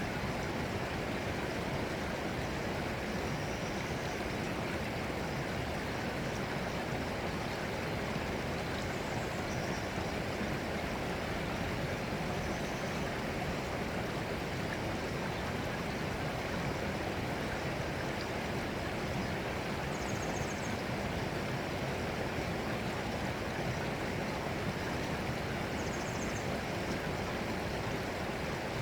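Running water, a steady, unbroken rushing like a stream. A few faint, brief high-pitched sounds come through now and then.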